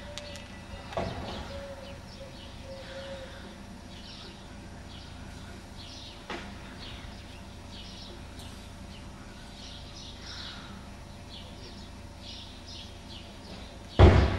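Small birds chirping repeatedly in short, high calls over a steady low background noise. A knock comes about a second in and a loud thump near the end.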